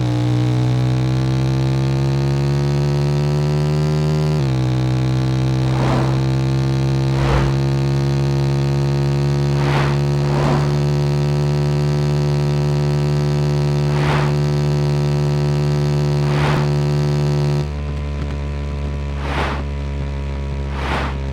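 Motorcycle engine running hard at steady revs. Its pitch drops at the start and again about four seconds in, like gear changes, then climbs slowly. It cuts to a quieter, different sound near the end.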